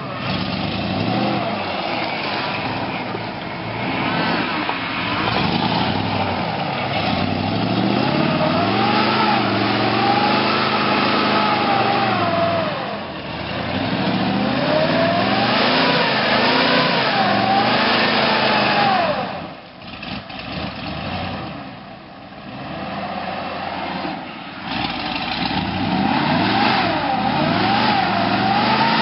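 1988 Ford F-150's 302 (5.0 L) V8 revving up and down repeatedly as the mud truck is driven. The revs drop off about twenty seconds in and build again a few seconds later.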